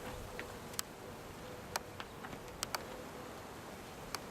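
Honeybees buzzing around an opened hive: a low, steady hum with a faint steady drone tone. A handful of short, sharp clicks stand out above it.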